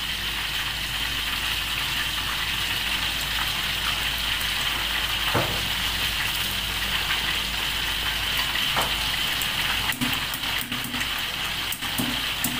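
Spice paste with tomato puree and chili sauce sizzling in oil in a stainless-steel wok: a steady frying hiss from paste that has already split its oil. A few sharp taps and scrapes of the metal spatula against the wok come near the end.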